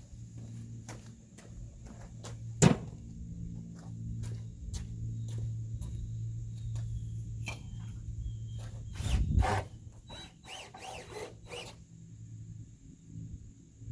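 Scattered knocks and clicks of hand work on lumber, with one sharp knock early and a louder clatter of knocks about nine seconds in, over a steady low hum.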